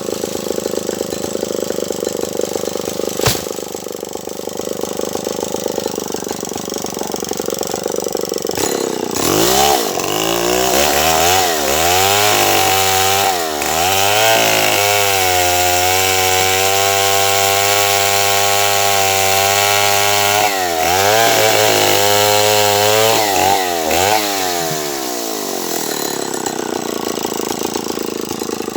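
A Stihl 070 two-stroke chainsaw runs at a low speed, with a sharp knock about three seconds in. About nine seconds in it is opened up to full speed. Its pitch dips and recovers several times as it bites into the sengon wood, holds steady through the cut, then drops back to idle near the end.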